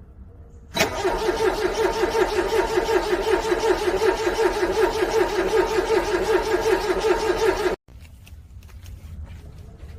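A cold car engine being cranked over by its starter motor: an even, rhythmic cranking that holds the same pace for about seven seconds without the engine firing. It starts suddenly about a second in and cuts off abruptly near the end.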